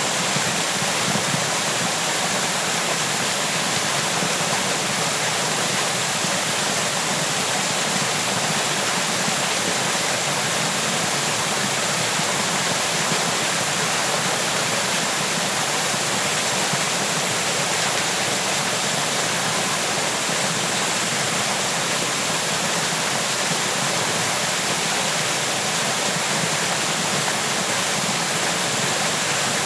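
A waterfall, water pouring down in a steady, unbroken rush.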